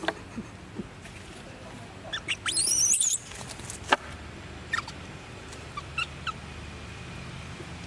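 Baby monkey squealing: a second-long run of shrill, wavering squeals about two seconds in, then a few short high chirps, over a low steady hum.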